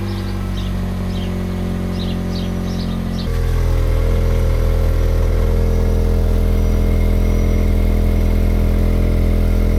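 Vauxhall Corsa B's engine running steadily through a rusted-through exhaust pipe, a loud, raw exhaust note typical of a holed exhaust. It jumps suddenly louder about three seconds in and then holds steady. Faint bird chirps are heard in the first few seconds.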